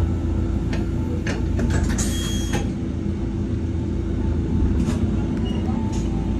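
Wakayama Electric Railway train running along the track, heard from inside the car: a steady low rumble with a constant hum. A few short clicks come through, and there is a brief hiss about two seconds in.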